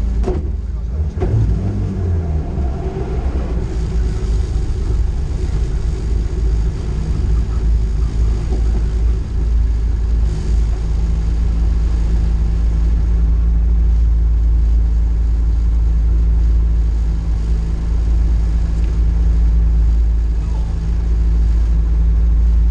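Rally car engine heard from inside the cabin. In the first few seconds it revs and settles as the car rolls forward, then it runs steadily at idle while the car waits at the stage start line.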